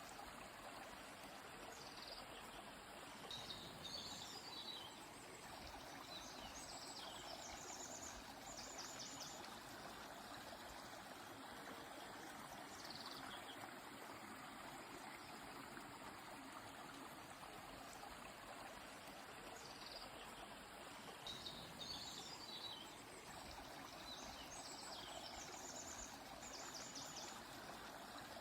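Steady, faint rush of a flowing river or stream, with small birds singing high chirps and short rapid trills in two clusters, one near the start and one near the end, and a single call in between.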